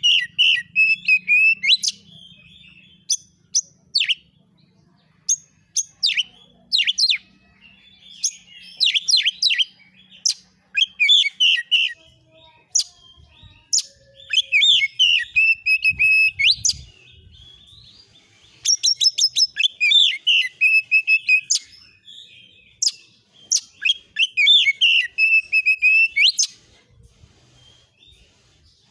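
Oriental magpie-robin singing in quick bursts of sharp chattering notes and whistles, with short pauses between phrases.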